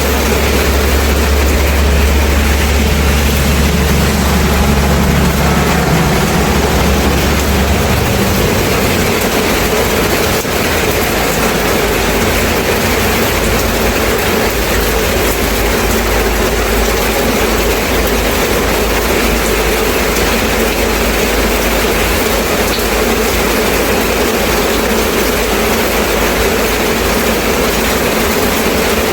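Steady rain falling, an even hiss. Underneath it is a low rumble that drops away about eight seconds in.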